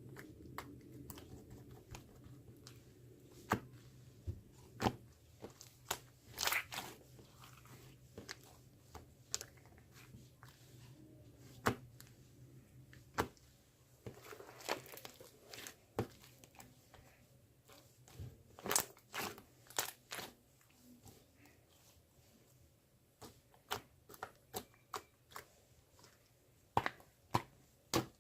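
Irregular sharp clicks and taps with some crinkling, coming singly and in small clusters over a faint low hum.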